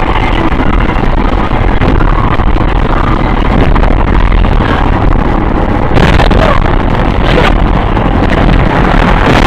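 Steady noise of a car on the move, engine and road noise together, with a brief louder burst about six seconds in.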